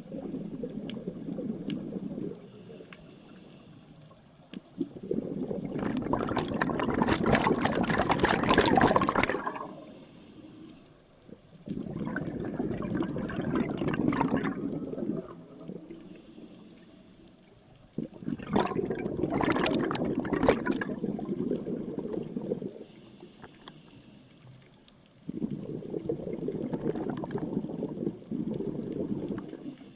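Scuba diver's exhaled bubbles gurgling out of the regulator in bursts of three to four seconds, about every six or seven seconds, with quieter gaps for each inhalation between.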